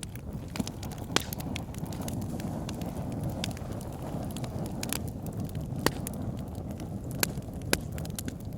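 Wood fire burning in a log burner: a steady low rumble of flames with sharp, scattered crackles and pops from the logs, about six in all.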